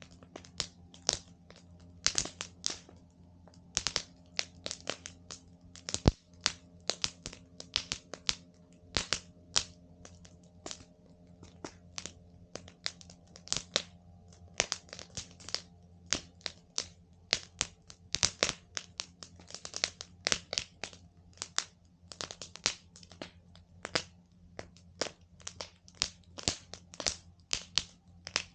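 Campfire crackling, the burning wood giving off irregular sharp pops and snaps, with one louder pop about six seconds in.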